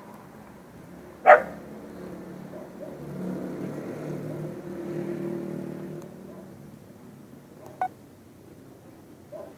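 A dog barking: one loud bark about a second in and two fainter barks near the end. A low, drawn-out pitched drone runs for a few seconds in between.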